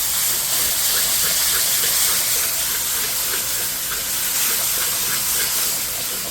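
Gilbaka fish curry sizzling in hot oil in a pot on the stove, a loud steady hiss with faint crackling.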